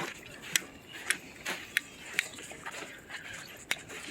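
Footsteps crunching in fresh deep snow, short crisp crunches about two a second.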